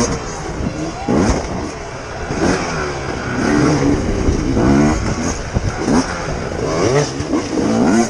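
Motorcycle engine revving up and down over and over, its pitch rising and falling about once a second.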